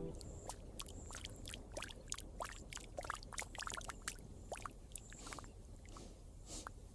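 Faint water sounds: many small splashes and drips, heard as scattered short ticks, over a low steady background hum.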